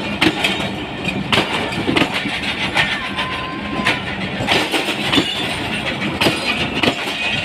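Passenger train rolling past on the track, its wheels knocking over the rail joints in an irregular clatter over a steady rumble.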